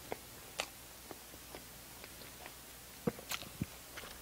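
Close-miked mouth sounds of a person biting and chewing a small soft-bun sandwich: scattered soft wet clicks and smacks, with a few sharper ones about three seconds in.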